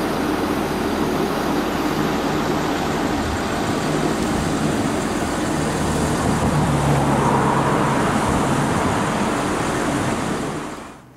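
A red DB Regio electric multiple unit running along the station tracks: a steady rumble with a low hum and a brief rising whine about seven seconds in, fading out near the end.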